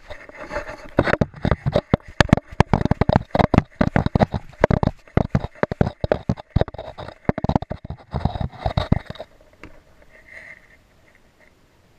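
Irregular knocks and scuffs from a camera strapped to a dog's body as the dog moves, thick and fast for most of the time and dying away about nine seconds in.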